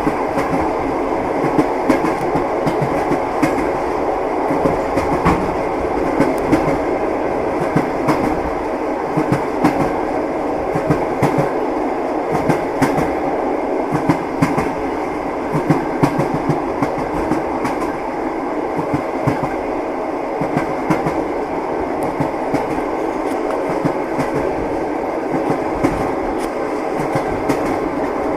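Train wheels clicking over rail joints: a steady rolling rumble with short, sharp clicks coming every second or so.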